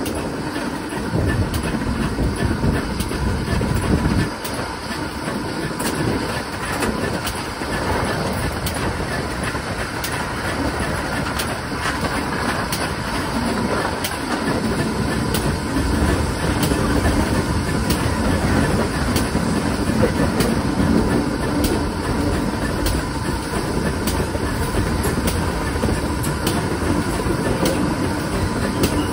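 Steam train hauled by a pannier tank locomotive running along the line: a steady rumble with frequent clicks of the wheels over the rail joints.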